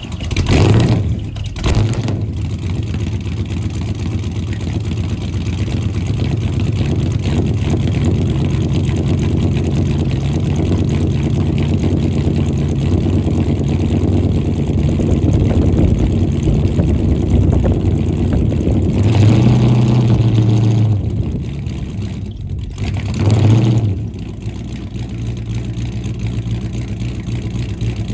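1969 Dodge Charger R/T's 440 big-block V8 just started from cold: it blips twice as it catches, then settles into a steady, loud idle, with two short revs of the throttle, a longer one past the middle and a brief one soon after.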